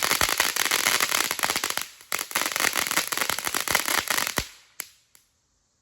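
Consumer firework ('Cool Cat') going off in a dense run of rapid pops and bangs, with a brief lull about two seconds in. The barrage dies out about four and a half seconds in, with two last pops.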